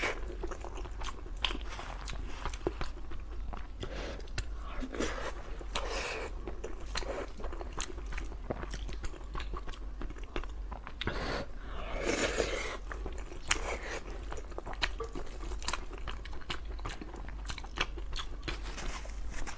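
A person chewing and biting a mouthful of braised pork over rice: a steady run of wet mouth clicks and small crunches.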